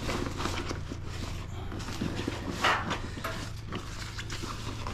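Tools and small objects clicking and clattering irregularly as someone rummages through a drawer or toolbox, over a steady low hum.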